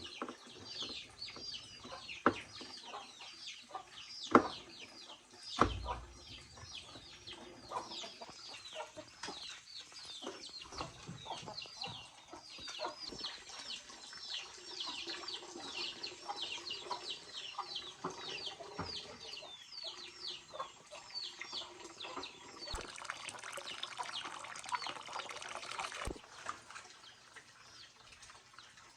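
Birds chirping: a fast, continuous run of short, high chirps that fall in pitch. A few sharp knocks come in the first six seconds, and a rushing, water-like noise comes in near the end.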